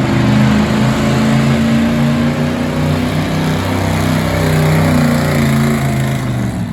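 Gasoline truck engine running hard at high revs, as if under load pulling a weight sled. The pitch sags a little midway, then holds steady.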